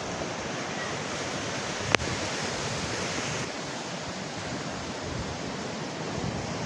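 Heavy tropical-storm rain falling as a dense, steady hiss, with a single sharp click about two seconds in.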